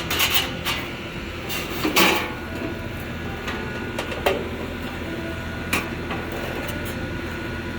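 A few scattered knocks and clunks, the loudest about two seconds in, from equipment being handled, over a steady low mechanical hum.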